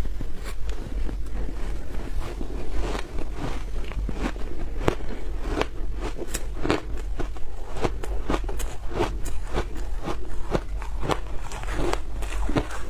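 Close-miked biting and crunching into frozen food, a run of sharp, irregular cracks about one to two a second, over a steady low hum.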